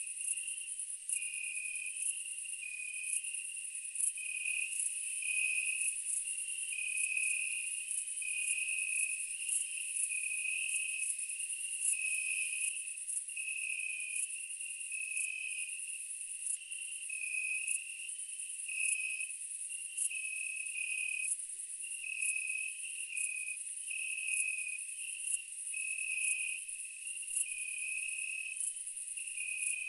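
Chorus of night insects, crickets among them: a steady high chirring over a lower chirp that keeps switching back and forth between two close pitches. No eruption blasts are heard.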